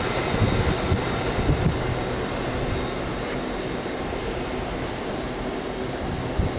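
Train moving through the station, the noise of its running gear slowly dying away, with a few low knocks early on.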